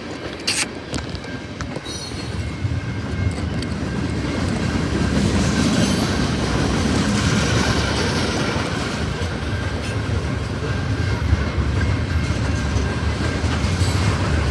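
A train rolling past, its cars clattering over the rail joints, growing louder about four seconds in, with a thin steady high tone of wheel squeal above it.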